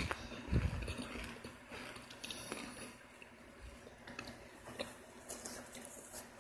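Biting and chewing a hard-baked chunk of Argo laundry starch: a heavy bite about half a second in, then irregular crunchy chewing.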